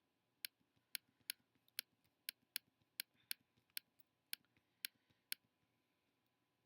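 Computer mouse button clicked about fourteen times in quick, uneven succession, stopping a little after five seconds in; faint room tone after.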